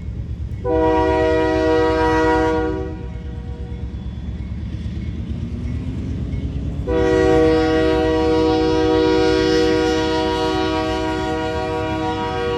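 Union Pacific freight locomotive's multi-chime air horn over the steady low rumble of the train. The horn sounds one blast of about two seconds, then about four seconds later a long blast that is held on.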